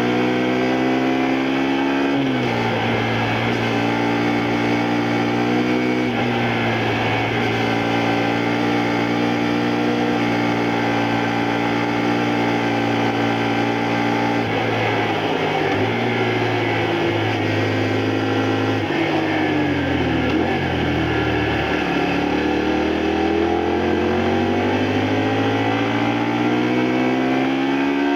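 2002 Honda Varadero 125's 125 cc V-twin engine under way: revs climb to a gear change about two seconds in and another around six, hold steady, then fall away through several downshifts past the middle before climbing again to another gear change at the very end.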